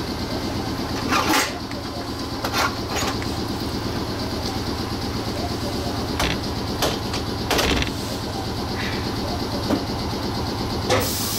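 Electric railcar standing at a station, its onboard equipment running with a steady low hum and a fine pulsing beat, with several sharp clicks and knocks; a loud hiss of air starts right at the end.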